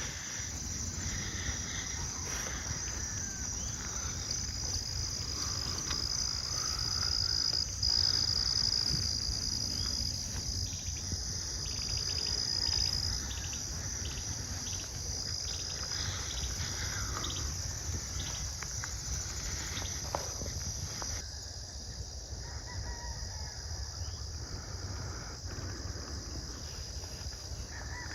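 Outdoor insect chorus: a steady high-pitched chirring that goes on throughout, with a run of rapid pulsed calls in the middle and scattered short bird calls.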